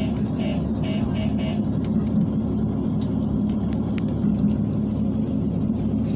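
Diesel railcar on the JR Takayama Line running along single track: a steady rumble of engine and wheels on rail, heard from on board. In the first second and a half a repeated ringing tone sounds about twice a second, and a few faint clicks come midway.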